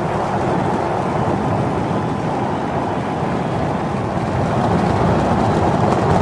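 SpaceX Starship rocket rumbling steadily at liftoff, as heard on the launch webcast's audio, a deep continuous roar of engine noise.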